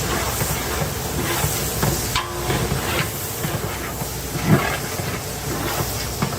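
Steady hissing of a large commercial cooking pot over a gas burner, with a few short knocks of a metal utensil against the pot.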